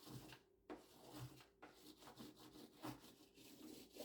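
Unwrapped crayon rubbed over paper laid on a 3D-printed plastic oyster-stamp, making a crayon rubbing: faint, repeated scratchy strokes, several a second.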